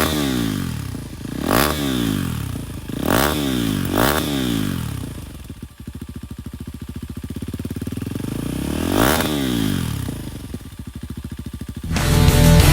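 Husqvarna Vitpilen 125's single-cylinder engine through a GPR GP-Revo titanium exhaust, revved in quick blips that rise and fall back: four in the first four seconds, then idling with an even putter, and one more blip a little after nine seconds before settling to idle. Music starts near the end.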